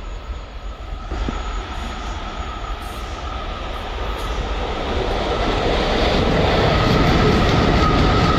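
Freight train hauled by a two-section VL11 electric locomotive approaching and passing, growing steadily louder, with a steady high-pitched whine running through the rail noise.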